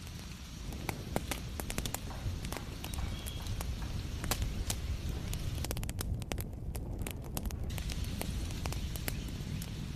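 Wood fire crackling, with frequent irregular sharp pops and snaps over a steady low rumble and hiss.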